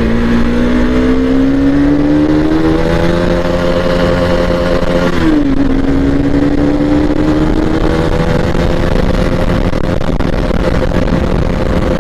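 Bajaj Pulsar NS200 BS4's single-cylinder engine pulling under throttle while riding. The exhaust note climbs steadily, drops sharply at an upshift about five seconds in, then climbs again in the next gear.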